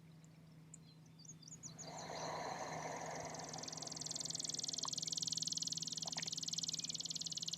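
A few short high chirps, then a faint, high, rapidly pulsing trill from a calling animal that holds for about five seconds and stops near the end, over a low steady hum.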